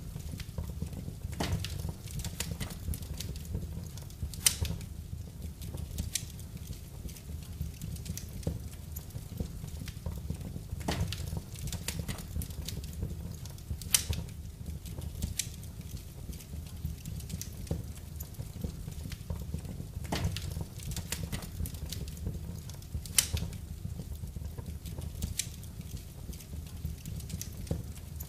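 Wood fire burning in a fireplace: irregular crackling with sharp pops, a few of them much louder, over a steady low rumble of the flames.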